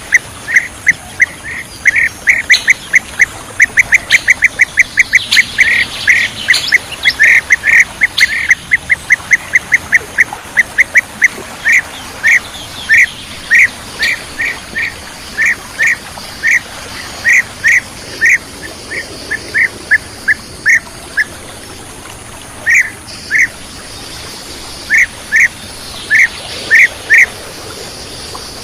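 Bee-eater (kirik-kirik) calls: short, clipped notes repeated fast, several a second, for the first ten seconds or so, then slowing to scattered single and paired notes with short pauses between.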